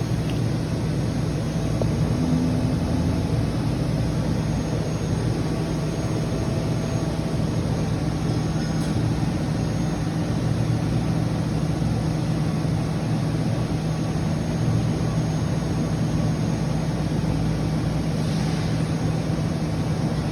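Steady electrical hum and hiss, a constant low buzz over a broad rushing noise floor: unwanted noise in the audio chain that persists even with the gain turned down.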